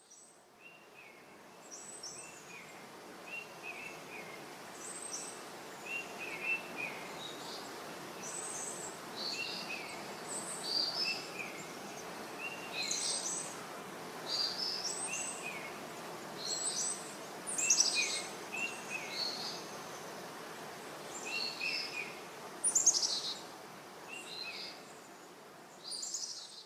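Birds singing and chirping, many short repeated phrases coming every second or so, over a steady background hiss.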